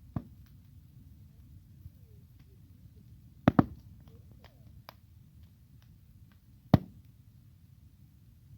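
A São João bonfire burning with a low steady rumble and scattered crackles. Sharp wood pops break through it: one near the start, a quick pair about three and a half seconds in, and another near the end.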